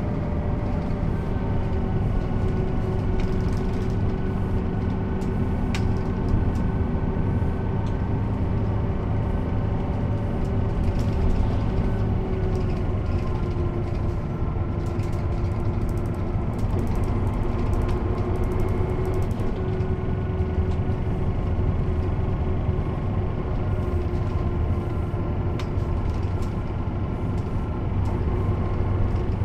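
Mercedes-Benz O 407 city bus diesel engine running steadily under way, its note rising and falling gently with road speed. A couple of short clicks or rattles are heard.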